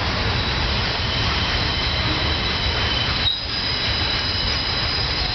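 Double-stack container well cars of a freight train rolling past, a steady rumble of wheels on rail with thin, high-pitched wheel squeal over it. The sound dips briefly about three seconds in.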